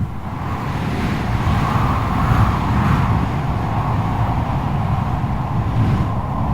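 Strong wind blowing hard: a low rumble under a wavering howl at a middle pitch, which swells a little two to three seconds in.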